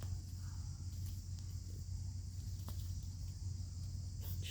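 Steady high insect drone over a low steady hum, with a few faint clicks.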